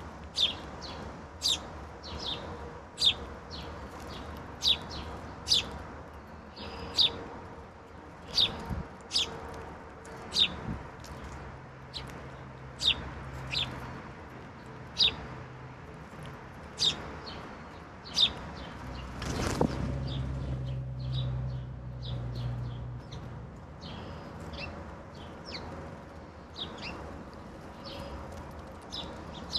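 Wild songbirds calling: a steady series of short, sharp chip notes, about one a second. About two-thirds through there is a brief rushing sound, and a low hum swells and fades across the middle stretch.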